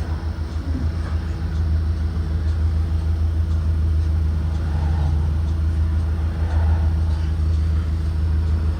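2023 Blue Bird Vision propane school bus's Ford 7.3-litre V8 running steadily, a constant low drone with no revving.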